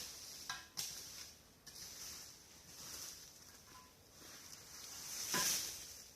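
Dry leaves and brush rustling in a series of swells, with a couple of sharp snaps about half a second in; the loudest rustle comes about five seconds in.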